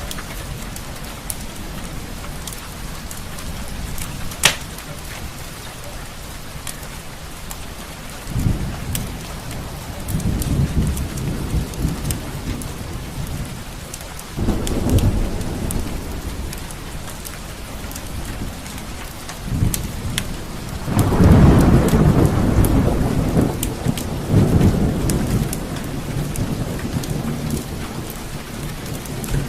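Steady rain with rolling thunder, several low rumbles that swell and fade, the longest and loudest one past the two-thirds mark. Scattered sharp clicks sit over the rain, one louder about four and a half seconds in.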